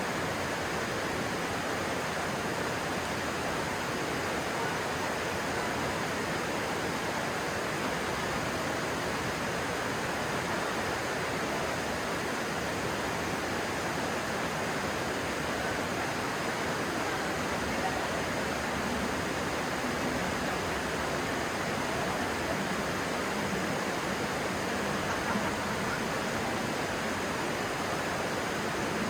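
Stream water rushing and splashing in a steady, even noise.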